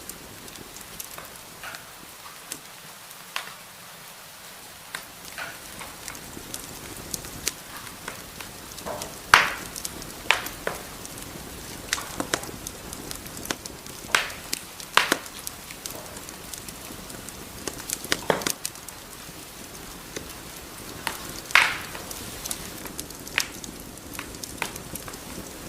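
Wood fire burning in a fireplace: a steady soft hiss with irregular crackles and a few louder, sharper pops.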